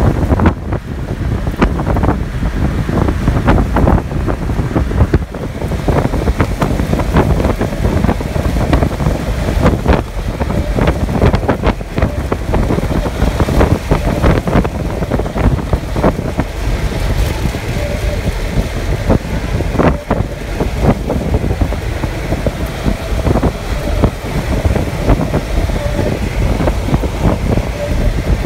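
Strong wind buffeting the microphone: a loud, low rumble broken by frequent crackles and pops.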